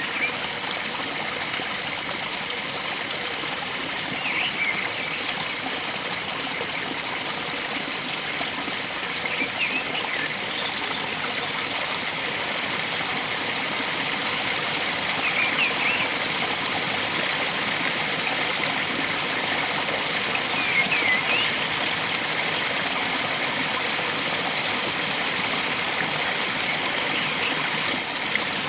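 Steady rush of a flowing stream, with a bird giving short chirps about every five seconds over it.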